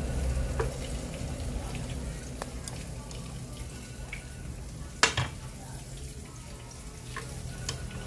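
Battered banana slices sizzling in hot oil in a frying pan, with light clicks of metal utensils against a bowl and one sharp clack about five seconds in.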